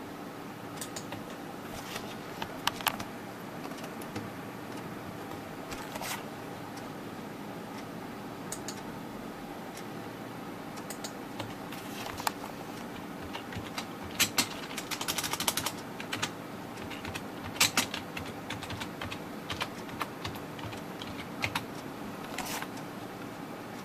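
Scattered light clicks and taps, with a quick run of them about fourteen to sixteen seconds in, over a steady low hum.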